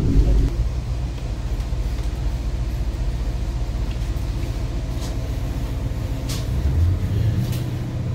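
Diesel suburban railcar running as it pulls away from a station, heard on board as a steady low engine hum with a few light clicks from the wheels and track. The engine note swells briefly near the end.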